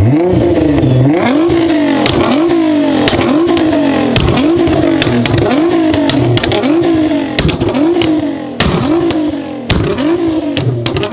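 A 700 hp Nissan GT-R R35 twin-turbo 3.8-litre V6 with a full Akrapovič exhaust, revved about ten times while standing still, roughly once a second. Each rev rises and falls back, and sharp pops and cracks from the exhaust come as each rev drops.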